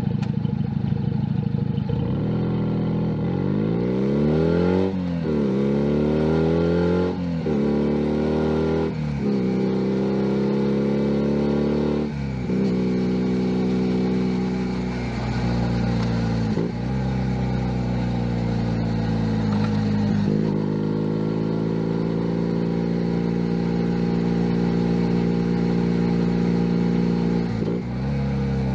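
Junak M11 Cafe 125 cc single-cylinder motorcycle engine accelerating from low revs, its pitch climbing and dropping back four times as it shifts up through the gears. It then holds a steady cruise with a few brief throttle dips.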